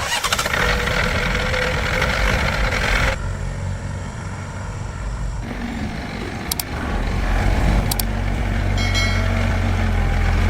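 Heavy vehicle engine running, with a steady low hum that grows stronger from about seven seconds in and a few sharp clicks.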